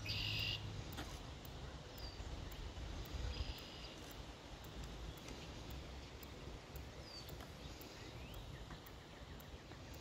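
Faint outdoor ambience with a few short bird calls and chirps scattered through it. The loudest is a brief harsh call right at the start.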